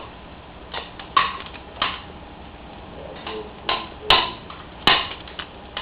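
A series of short, sharp clicks or taps from a pet bird, about seven of them at irregular intervals, a few with a brief squeaky tone.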